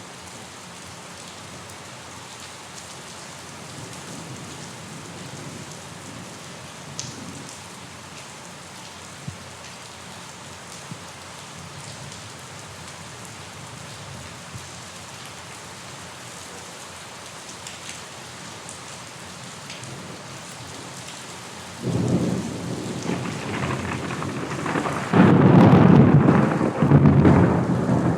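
Steady rain falling, with a few faint drips standing out, then a loud clap of thunder breaking about 22 seconds in and rumbling on, swelling again a few seconds later.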